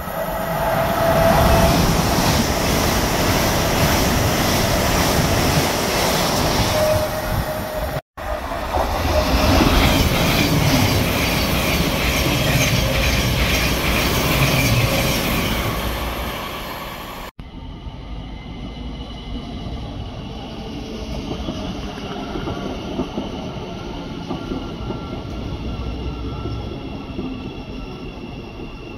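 A Thameslink Class 700 electric multiple unit running through at speed: loud rumble and roar of wheels on rail with a rhythmic clickety-clack, easing off over the last seconds of the run. About two-thirds of the way in, it gives way to a quieter, steady hum from an electric train standing at the platform.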